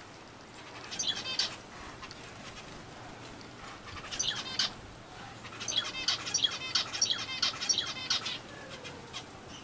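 Aviary birds chirping in three bursts of rapid, high repeated notes, the longest running for a couple of seconds past the middle.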